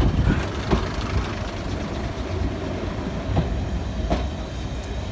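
Class 101 diesel multiple unit running along the line: a steady low rumble, with a few sharp clicks of the wheels over rail joints.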